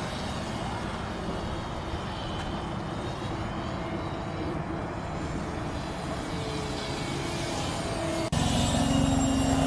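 Radio-controlled model airplane's motor droning steadily in flight. About eight seconds in it cuts abruptly to a louder, slightly lower drone.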